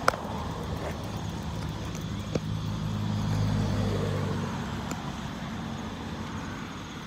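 A motor vehicle passing by: its engine hum swells to a peak about halfway through, then fades away. Two sharp clicks, one right at the start and one a couple of seconds later.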